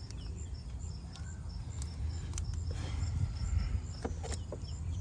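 Scattered light clicks and taps of hands fitting a rubber vacuum hose and its plastic connector in a car's engine bay, over a steady low hum. An insect chirps faintly and evenly, about twice a second.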